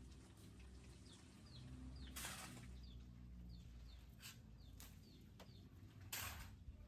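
Faint, repeated short chirps from small birds, a few each second, over a low hum. Two brief louder bursts of noise come about two seconds and about six seconds in.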